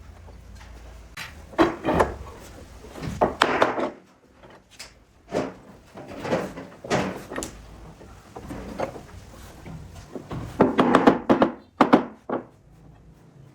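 Irregular wooden knocks and thuds, as from boards or tools being handled and set down, with a quick cluster of knocks near the end.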